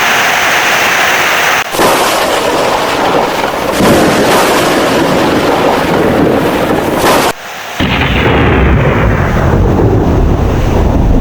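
Heavy rain with thunder: a dense, loud hiss of rain, broken by sudden cuts about two and seven seconds in, after which a deep low rumble of thunder comes up under the rain.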